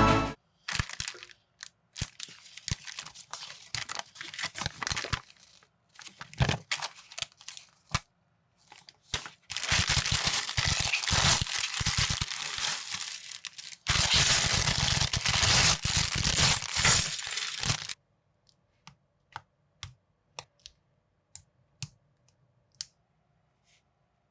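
Plastic parts bags of building bricks being torn open and crinkled, in two long stretches of dense crackling, followed by a few sharp clicks of plastic bricks.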